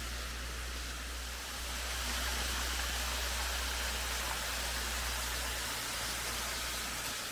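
Steady rushing hiss of a waterfall, swelling slightly about two seconds in.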